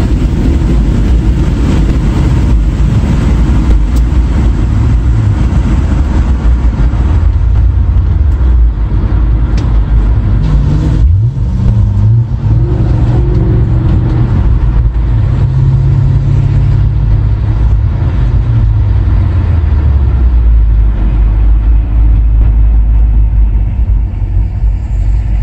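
Car engine under hard acceleration over a heavy low rumble of road and wind noise; about eleven seconds in the engine pitch climbs steeply, holds high for several seconds, then falls away.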